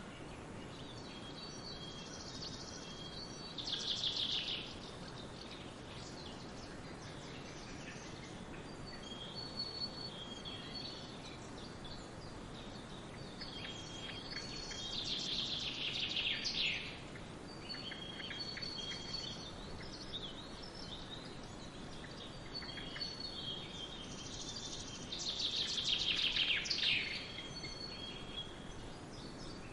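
Songbirds singing over a steady background rush of forest ambience. A loud trilling song that falls in pitch comes three times, about ten seconds apart, with thinner repeated high whistled notes from other birds between.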